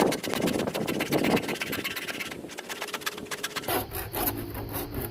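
Fine-tooth miter box handsaw cutting through 3-inch heavy-wall PVC pipe, a steady rasping of rapid back-and-forth strokes.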